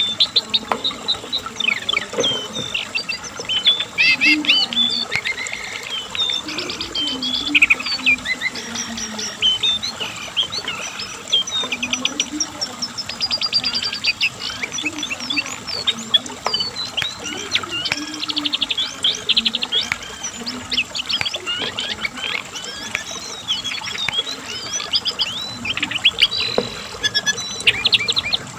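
A cingcoang (brown jongkangan, a shortwing) singing a long, continuous, varied song of quick chirps, trills and fast repeated notes, with hardly a pause.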